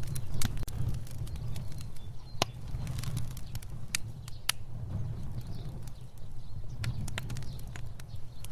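Fire burning: a steady low rumble of flames with irregular sharp crackles and pops, a few of them louder.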